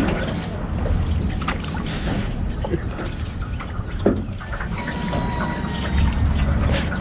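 Water splashing and trickling around a small rowboat as it is paddled, with a few soft knocks of the paddle and a low wind rumble on the microphone.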